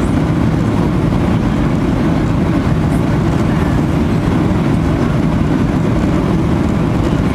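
Steady, loud, low rumble of a vehicle in motion, unchanging throughout.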